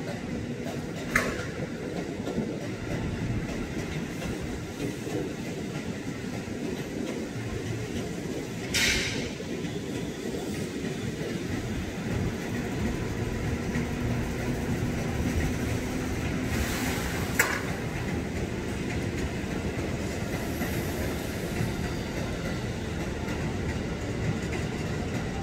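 KRL Commuter Line electric commuter train running through the station, a steady rumble with wheels clacking over the rail joints. A few brief, sharp high-pitched sounds cut through it, the loudest about nine seconds in.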